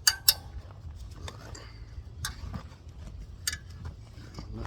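Light, sharp clicks and taps from handling the wheel rim and the inner tube's valve stem: two quick clicks at the start, then a few more spaced out, over a low steady hum.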